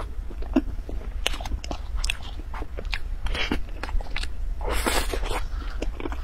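Close-up eating sounds of a person chewing soft cream cake: wet mouth clicks and lip smacks, many short clicks in quick succession, with a longer rustling sound about five seconds in.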